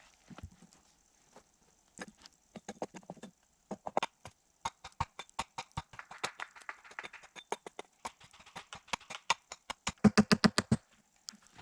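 An irregular run of sharp clicks and knocks, with a fast, loud burst of about ten strikes near the end.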